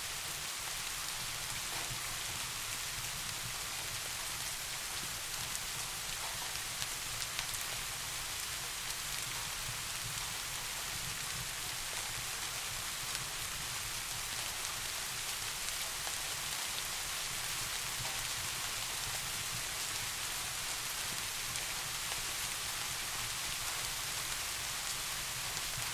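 Steady soft rain: an even hiss with scattered drop taps, over a faint low steady rumble.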